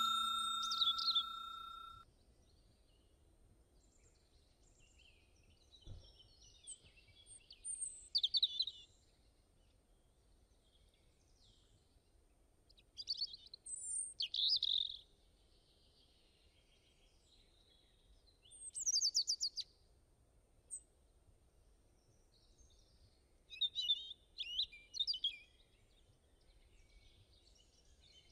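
A bell-like chime fades away over the first two seconds, then birds chirp in short bursts about every five seconds.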